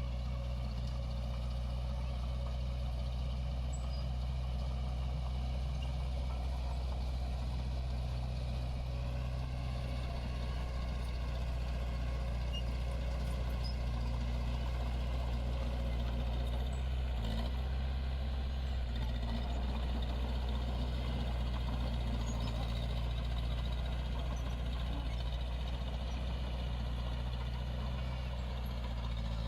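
Diesel engine of heavy earthmoving equipment running steadily at an even speed.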